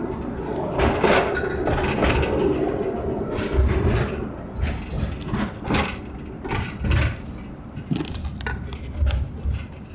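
Narrow-gauge forest railway train running on its track, with irregular knocks and clacks from the wheels and cars over the rails. A steady engine drone fades after the first few seconds.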